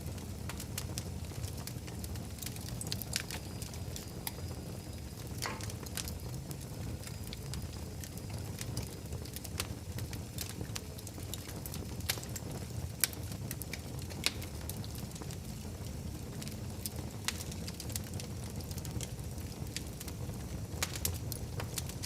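Fireplace fire crackling: irregular sharp pops and snaps over a steady low rumble, with a couple of louder pops about halfway through.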